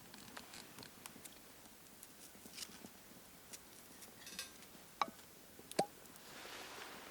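Faint scattered clicks and light clinks of camp cookware being handled, with two sharper clinks about five and six seconds in.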